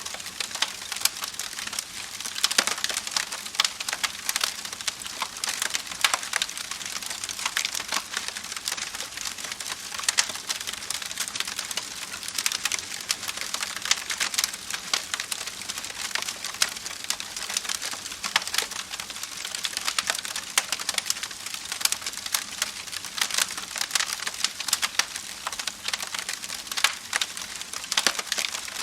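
Campfire crackling: a dense, irregular run of small pops and snaps from burning wood over a soft hiss, with a louder snap every few seconds.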